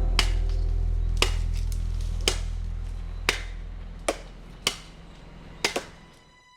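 Hammer blows, roughly one a second and sharp, with two in quick succession near the end, over a low steady hum that fades out.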